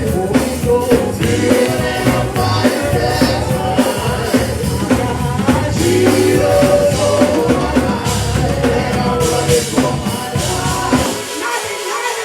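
Live gospel worship music: singing over a band with drum kit and bass. Near the end the bass and drums drop away.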